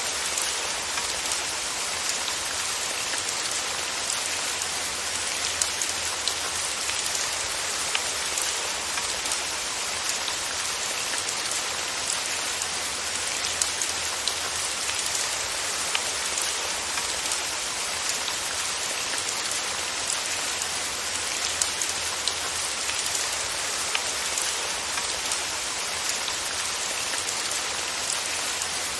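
Steady rain falling, a continuous even hiss with scattered individual drops pattering on a surface.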